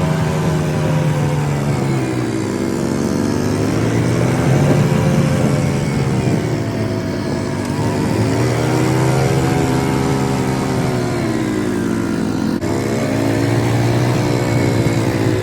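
A motor vehicle's engine running. Its pitch rises and falls smoothly every few seconds as it speeds up and slows down, over a steady low hum.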